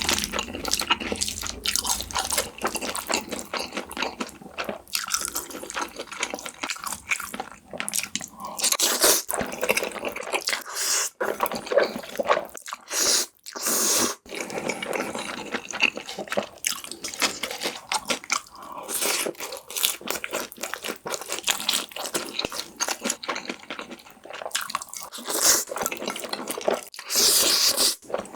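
Close-miked eating of black bean noodles and sweet-and-sour pork: wet chewing and smacking with crunchy bites, a dense run of irregular mouth clicks.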